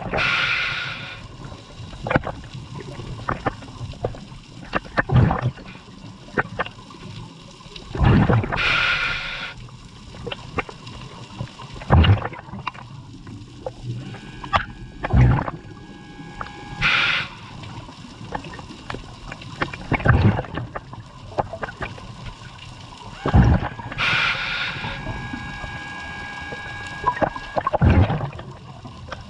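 Scuba diver breathing through a regulator underwater: a hissing inhalation about every eight seconds, with bubbling, thumping exhaled bubbles in between.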